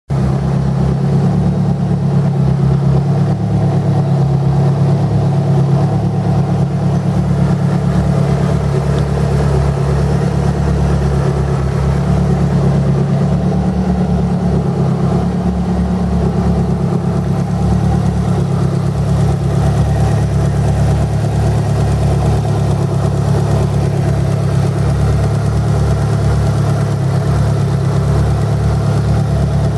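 Lancia Delta HF Integrale 16V's turbocharged DOHC 16-valve four-cylinder engine idling steadily.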